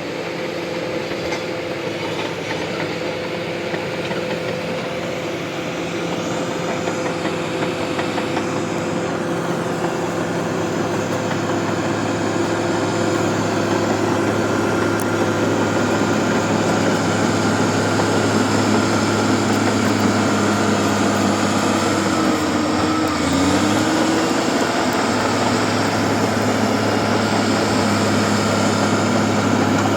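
Bulldozer's diesel engine running steadily under work, slowly growing louder, with a brief dip in engine pitch about two-thirds of the way through.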